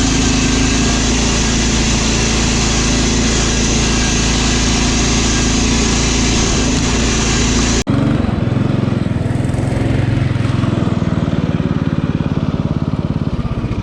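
Riding lawn mower engine running hard and steady. About eight seconds in it cuts suddenly to another mower engine with a throbbing, pulsing beat.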